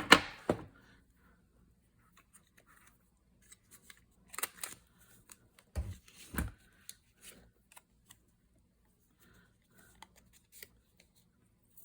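Paper being handled and cut on a craft table: scattered short snips, clicks and rustles, the loudest pair about six seconds in.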